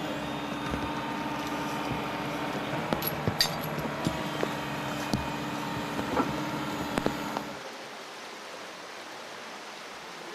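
An engine running steadily, with scattered knocks and clanks over it; about three-quarters of the way through it cuts off abruptly to a quieter, steady hiss.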